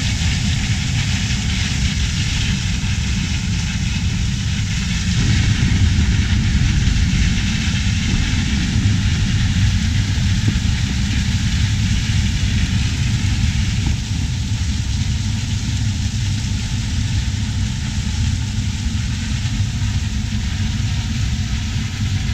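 Heavy farm machinery's diesel engine running steadily, getting a little louder about five seconds in.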